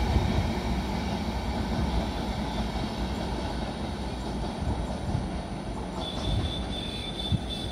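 Passenger train's coaches rolling past at speed and then receding, the rumble of wheels on rails fading steadily as the last coach moves away. A thin, steady high whine comes in about six seconds in.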